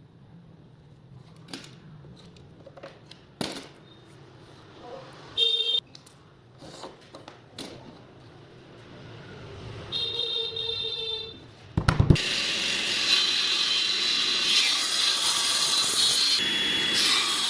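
Small clicks and knocks of handling, with two brief whirring bursts, then about twelve seconds in a power tool starts and runs steadily, working wood.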